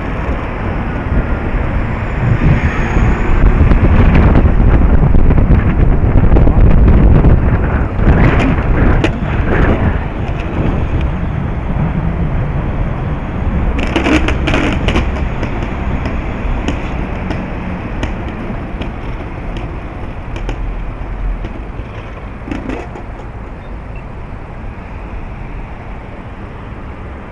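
Strong wind buffeting the microphone with a rumbling rush of outdoor and vehicle noise, loudest in the first several seconds and easing off toward the end, with scattered clicks and rattles around a third and halfway through.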